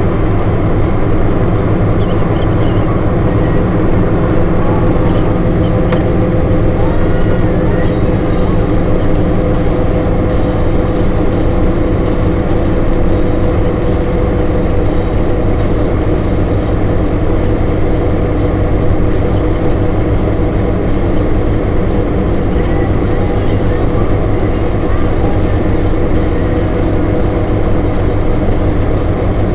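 A HMMWV's V8 diesel engine and drivetrain drone steadily and loudly while it is driven, with no change in pitch or level.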